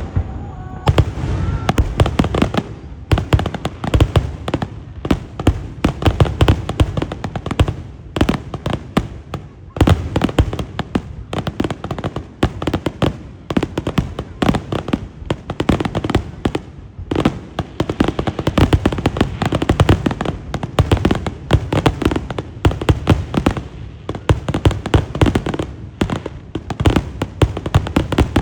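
Fireworks display: a dense, nearly unbroken run of booms and crackling bursts, many a second, starting about a second in.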